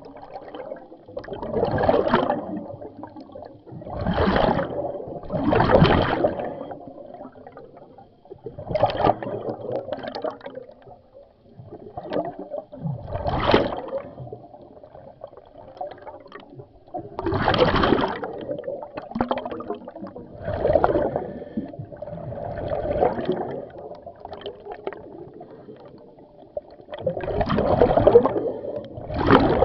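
Scuba diver's regulator breathing underwater: gurgling rushes of exhaled bubbles every few seconds, with quieter stretches between breaths.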